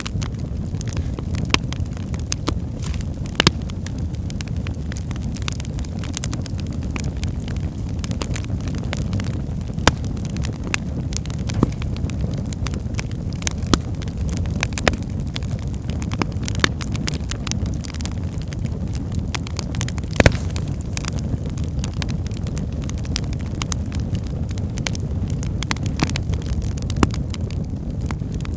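Wood fire burning in a fireplace: a steady low rumble of flames with scattered sharp crackles and pops from the logs, a few louder snaps among them.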